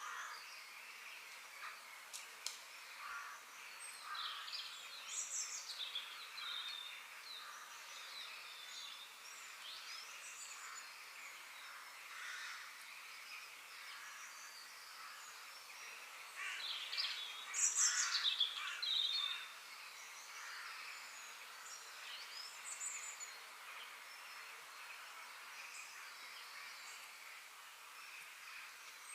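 Birds chirping and calling in a park: scattered short chirps and sweeping calls over a steady background hiss, with a louder flurry of song about two-thirds of the way through.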